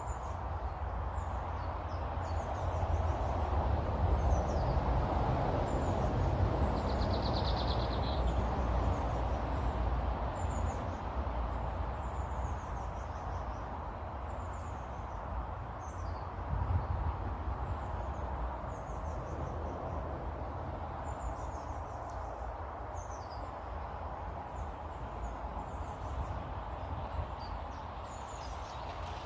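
Small garden birds calling with short, high, falling chirps again and again, with one brief buzzy trill about a quarter of the way in. Under them runs a steady, louder rushing noise with a low rumble.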